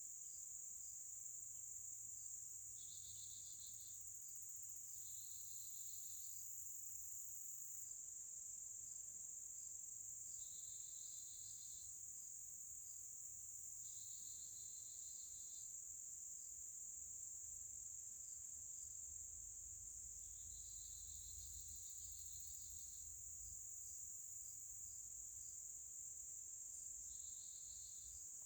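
Chorus of insects, crickets by their sound: a steady, high, faint trill throughout, with a second, lower trill coming in bursts of one to two seconds every few seconds.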